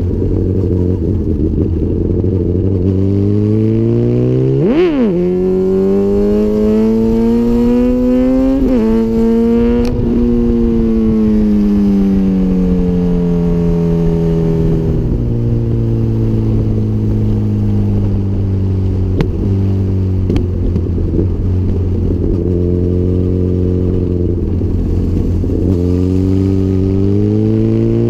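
2004 Honda CBR1000RR's inline-four engine through a full Micron exhaust, accelerating hard with two quick upshifts where the pitch drops suddenly, then easing off with a falling pitch, holding a steady speed, and accelerating again near the end.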